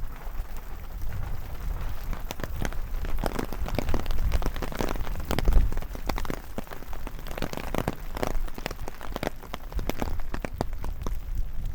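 Rain falling in a forest, with many close, sharp drips hitting in quick succession over a steady low rumble.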